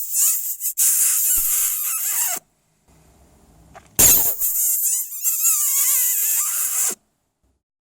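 A hedgehog huffing and hissing in two long, loud bursts, with a wavering squeaky whine running through the second.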